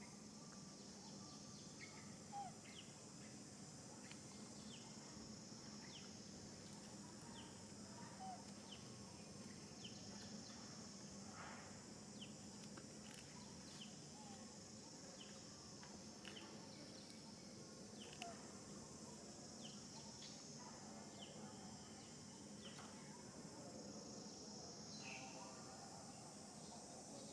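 Faint outdoor ambience: a steady high insect buzz, with short high chirps scattered throughout.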